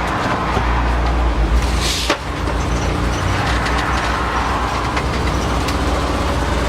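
Motor vehicle driving, a steady low engine and road rumble, with a short sharp hiss about two seconds in.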